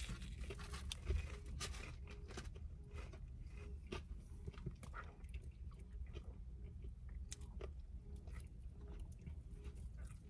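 Chewing and crisp crunching of a breaded Korean fried cheese dog (mozzarella on a stick), in irregular crackly bites, with a louder crunch about a second in.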